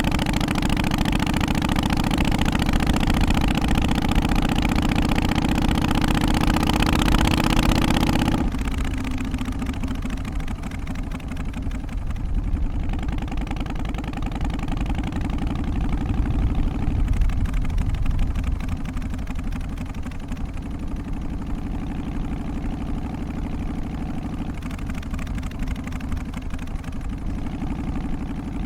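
Harley-Davidson FXST Softail's Twin Cam 88 V-twin engine idling. About eight seconds in, the sound turns suddenly quieter and duller, then runs on steadily.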